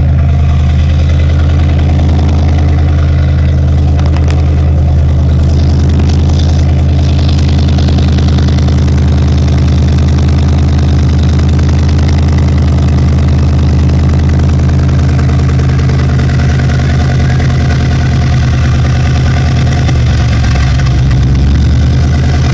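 LS-swapped V8 engine idling steadily through its newly connected exhaust, with a loud, low, even exhaust note.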